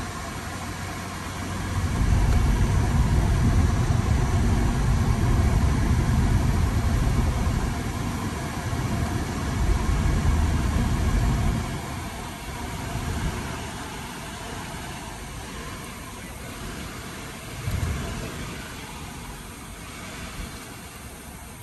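Mercedes-Benz SLK 320's 3.2-litre V6 running, its low sound swelling about two seconds in and holding loud for about ten seconds before easing back to a lower level, with a brief rise near the end.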